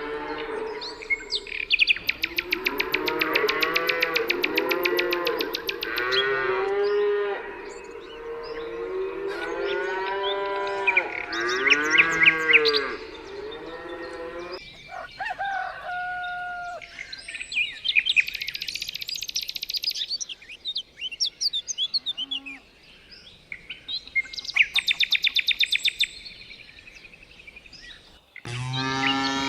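Cattle mooing, several calls overlapping through roughly the first half, with birds chirping in short high bursts and rapid trills, more noticeable in the second half.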